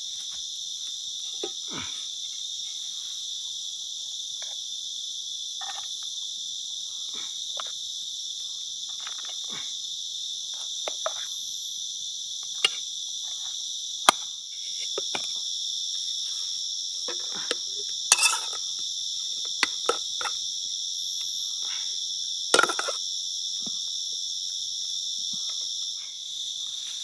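Steady, high-pitched chorus of night insects in the forest, with a few sharp clicks and small knocks scattered through it.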